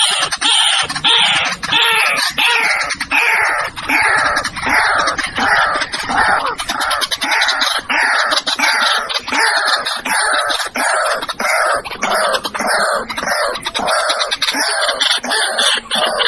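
White-breasted waterhen calling: a loud, unbroken series of harsh notes, each sliding down in pitch, about two a second.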